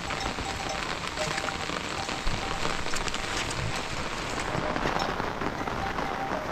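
Heavy rain falling steadily, a dense patter of many drops striking surfaces.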